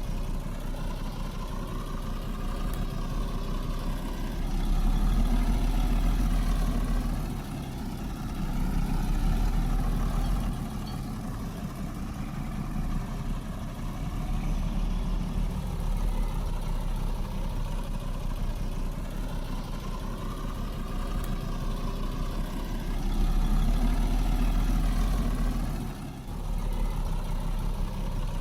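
Heavy diesel earthmoving machinery running continuously, its engine swelling louder for a second or two several times before settling back.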